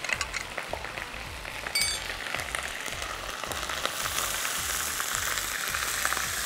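Onions and whole spices crackling in hot oil in a wok, then chicken stock poured in, bringing on a louder, even sizzle from about four seconds in. A brief clink near two seconds.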